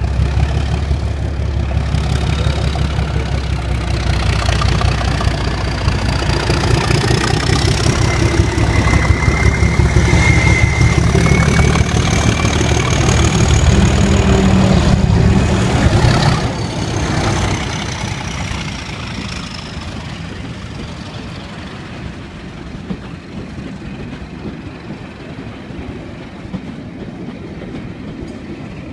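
Pair of DRS Class 37 diesel locomotives, their English Electric V12 engines working hard under power, with a high turbocharger whistle over the engine note. The sound builds to its loudest about halfway through, drops off sharply soon after and fades as the train draws away.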